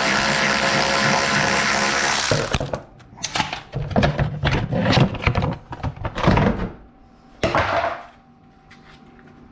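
A small power tool on a fastener whirs steadily for about two and a half seconds and stops abruptly. Then comes a run of irregular clicks, clanks and knocks as parts are handled, with a louder scraping rustle about seven and a half seconds in.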